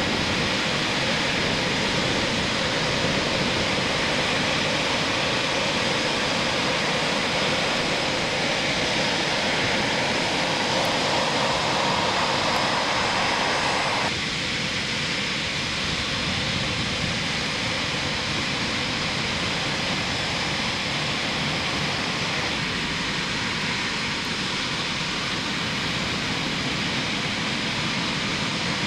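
Eurofighter Typhoon's twin EJ200 jet engines running, a loud steady noise with no rise or fall in pitch. About halfway through it drops abruptly and a little in level.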